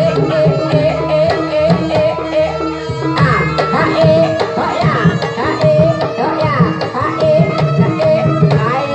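Javanese jaranan (kuda lumping) accompaniment music: fast kendang hand-drumming over held gamelan tones, with a wavering, gliding melody line on top.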